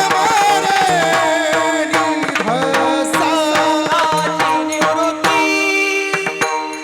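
Varkari kirtan tune: a man sings a wavering, ornamented devotional line over steady held tones, with mridang strokes throughout. The voice stops about five seconds in, leaving the held tones and drum.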